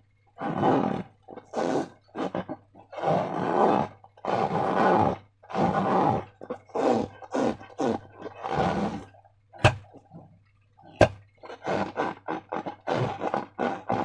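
Slime squelching and squishing in irregular wet bursts as it is squeezed and worked, with two sharp clicks a little over a second apart past the middle.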